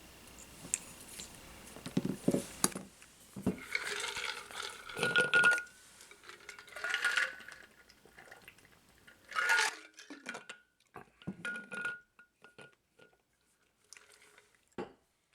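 Small tools and parts handled on a workbench during a drone frame repair: irregular bursts of clinking, rattling and scraping, some with a brief metallic ring. The handling thins out to a few scattered ticks near the end.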